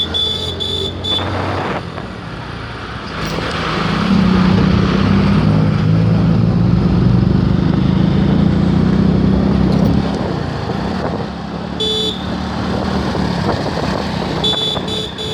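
Road traffic: a vehicle engine hum that grows louder from about four to ten seconds in. Bursts of quick repeated horn toots come at the start, about twelve seconds in and near the end.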